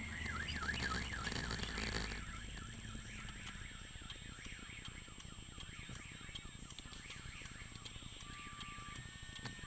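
A car alarm siren warbling, its pitch sweeping quickly up and down, loud over a rumbling noise for about the first two seconds and then fainter. Near the end short steady beeps join it.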